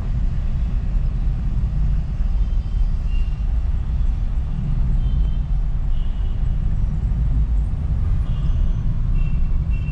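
Steady low rumble of a car driving in slow traffic, heard from inside the cabin, with a few faint short high tones here and there.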